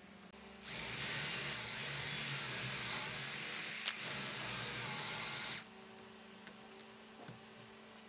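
An electric power tool runs for about five seconds, its high whine dipping in pitch midway and recovering, then stops abruptly.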